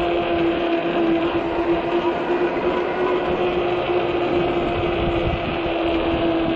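Electric bike's hub motor whining at a steady pitch under a rush of wind noise and tire hum while riding.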